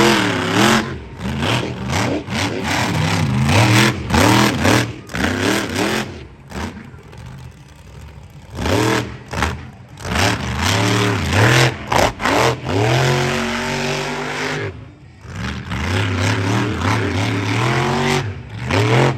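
A stunt vehicle's engine revving hard again and again, its pitch climbing and dropping with each blip of the throttle and held steady for about two seconds past the middle.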